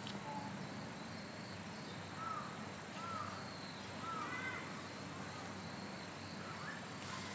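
A bird calling a few short, arched notes about two to four and a half seconds in, over steady outdoor background noise.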